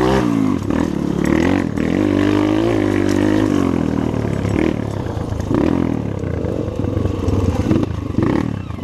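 Trail motorcycle engine running, its pitch rising and falling as the throttle is opened and closed, most clearly in the first few seconds, then running more roughly.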